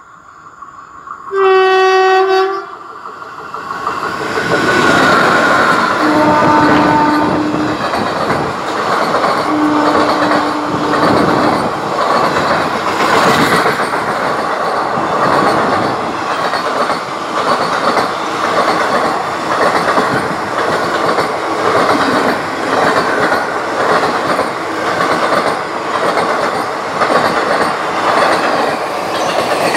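An Indian Railways electric locomotive sounds one loud horn blast as it approaches, then two longer, lower-pitched blasts as it passes. Its train of passenger coaches follows, rushing by close up with a steady rhythmic clatter of wheels over the rail joints.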